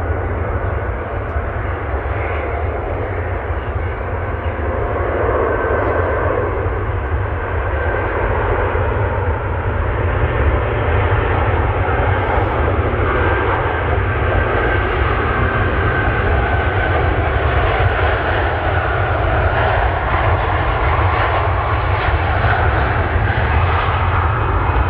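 Jet airliner engines, a continuous rumble with a faint steady whine, growing gradually louder.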